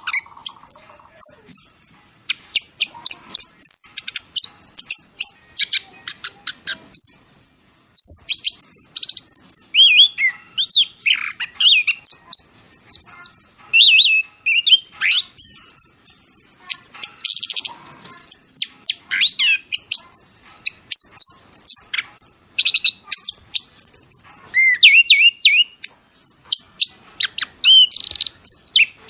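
Songbird song: a continuous, fast and varied run of high chirps, trills and gliding whistles.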